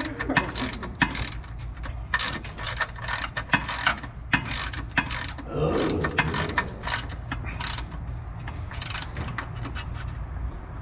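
Hand ratchet wrench clicking in short, irregular runs as bolts are turned.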